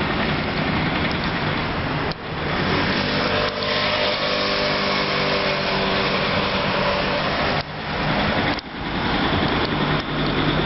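A road vehicle's engine running close by with a steady hum through the middle, over loud rushing traffic noise.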